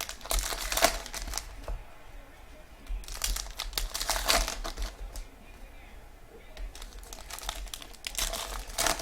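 Trading-card pack wrappers crinkling as packs are handled and opened, in three bouts of crackly rustling: near the start, in the middle and near the end.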